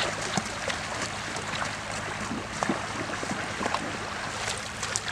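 Shallow river water churning and splashing steadily, with many small scattered splashes and ticks, over a faint low steady hum.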